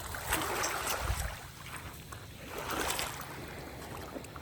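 Small waves washing and lapping at a rocky shoreline, swelling twice, with wind rumbling on the microphone about a second in.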